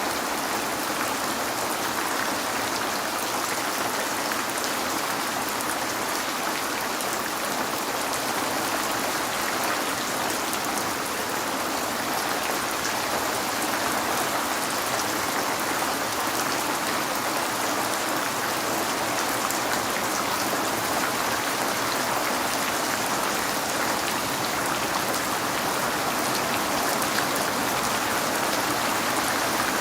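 Steady rain falling on a window, a continuous patter of drops with no let-up.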